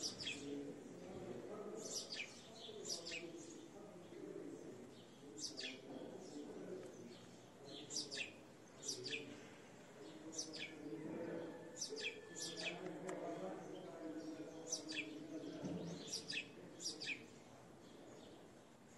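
A small bird chirping repeatedly: short, sharp notes that fall steeply in pitch, about one every second and sometimes two close together, over a low, steady background murmur.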